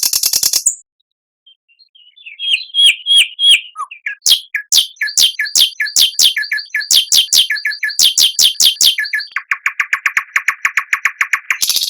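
Songbird singing: a rapid high trill breaks off, and after a pause comes a run of sharp, downslurred whistled notes at about three a second, ending in a fast, lower trill before a high buzzy trill starts again at the very end.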